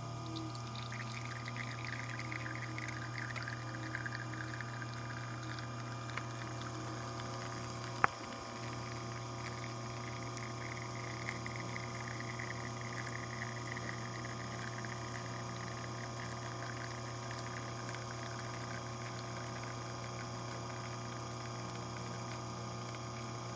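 Espresso pouring from a Rocket R58's group head into a cup over the steady low hum of the machine's pump. One sharp click comes about eight seconds in.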